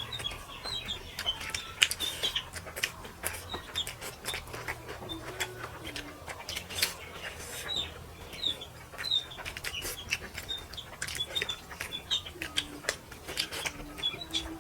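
Close-up eating sounds, many irregular wet clicks and smacks of chewing, with birds chirping in the background.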